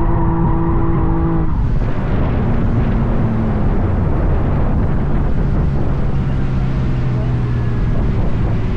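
Drift car engine held at high, steady revs for about a second and a half, then an abrupt change to a rougher, noisier mix of engine and tyre noise.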